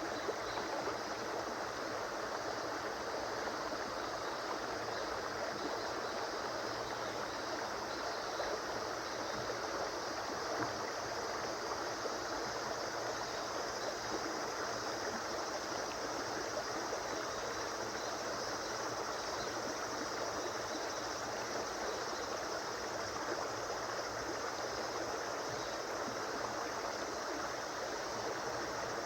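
A river flowing: a steady, even rush of water with no change in level.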